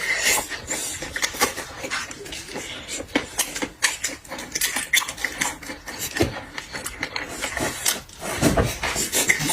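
A person eating seafood close to the microphone: chewing and slurping, with many sharp irregular clicks and crackles throughout and a louder breathy sucking sound near the end.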